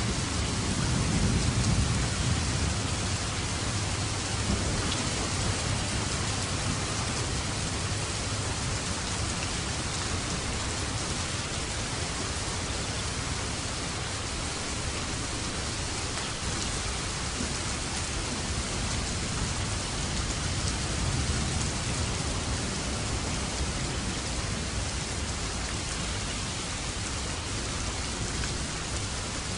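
Steady rain falling on surfaces, an even hiss, with a low rumble of thunder swelling about a second in.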